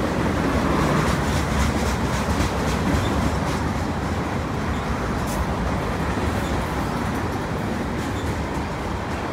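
CN freight train of covered hopper cars rolling past: a steady rumble of steel wheels on rail, with scattered clicks in the first few seconds.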